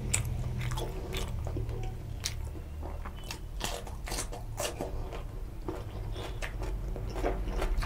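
Close-up crunching and chewing of a raw cucumber slice, a run of crisp crunches over a steady low hum.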